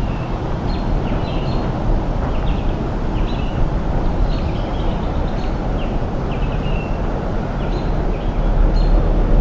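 Small birds chirping repeatedly, short high calls over a steady low rumbling background noise.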